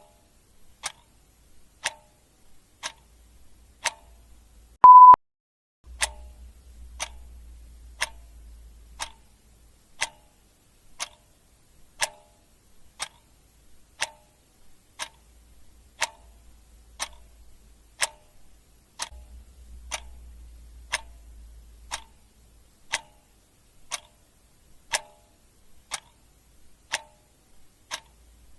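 Clock ticking steadily about once a second. A single short steady beep about five seconds in is louder than the ticks.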